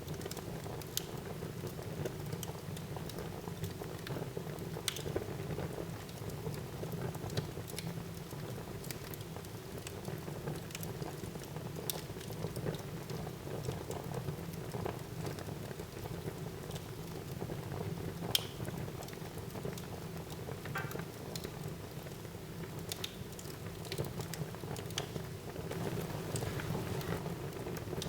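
Wood fire burning in a fireplace: a steady low rush with scattered crackles and pops, one louder pop about two-thirds of the way through.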